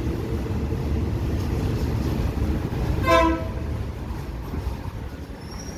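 Steady low rumble of an idling diesel train standing at a station, with one short train horn toot about three seconds in.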